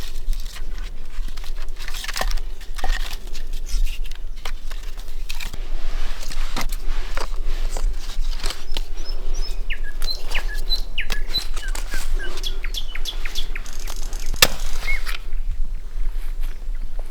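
Small birds chirping in short repeated calls, mostly in the second half, among many scattered sharp clicks and snaps, with one loud snap about fourteen seconds in.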